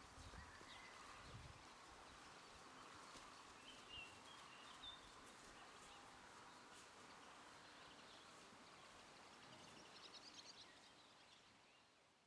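Faint outdoor ambience, close to silence, with small birds chirping now and then and a quick run of chirps about ten seconds in; the sound fades out at the very end.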